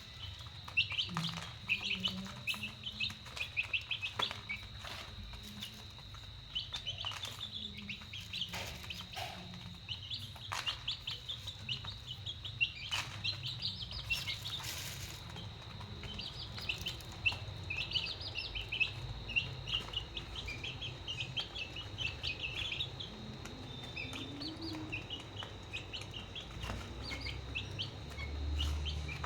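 Many baby chicks peeping continuously in short, rising chirps, with scattered sharp taps and a steady high tone in the background.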